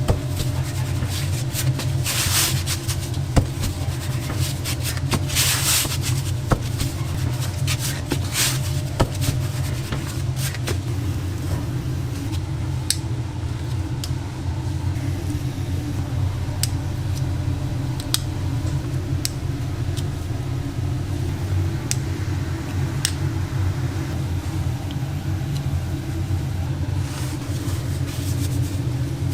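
Steady low mechanical hum of kitchen machinery, with bursts of hiss in the first few seconds and scattered light clicks and knocks of work in the shop.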